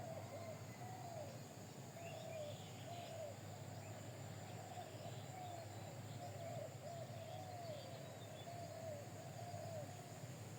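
Birds calling: a steady run of short, rising-and-falling notes repeating one after another, with faint higher chirps, over a constant low hum.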